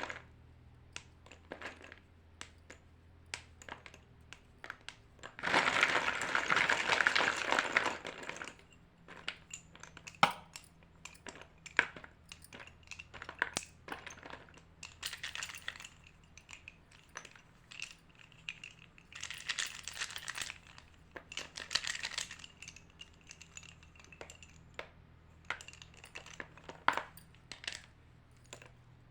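White chalk crunching: scattered sharp cracks and snaps throughout, with a long dense spell of crunching about five seconds in and two shorter ones past the middle.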